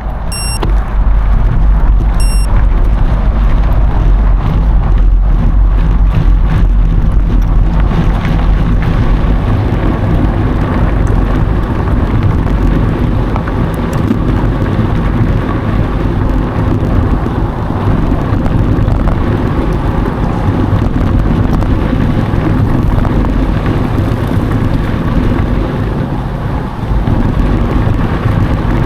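Wind buffeting an action camera's microphone over the rumble and crackle of mountain bike tyres rolling along a dry dirt trail. Two short electronic beeps sound early, about half a second and two seconds in.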